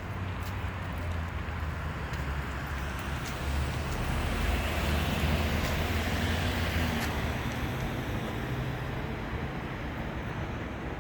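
Road traffic noise: a steady low rumble, with a passing vehicle swelling louder in the middle and fading.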